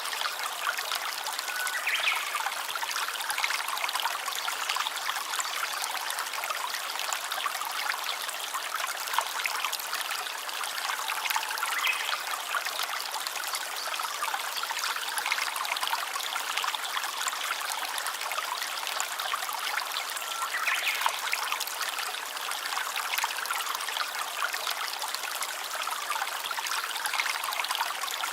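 Small stream of water trickling and running steadily.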